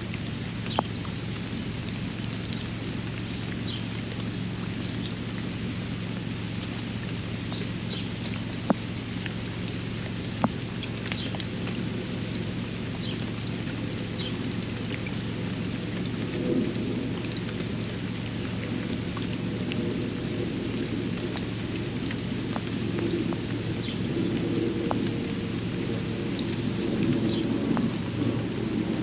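Steady rain falling on a backyard pond and its surroundings, with a few sharp taps of drops striking close by. A low rumble swells over the second half.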